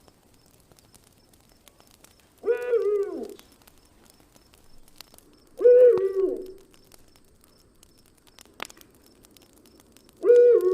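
A forest animal's call, a short steady pitched note that drops at the end, repeated three times a few seconds apart, over the faint crackle of a campfire.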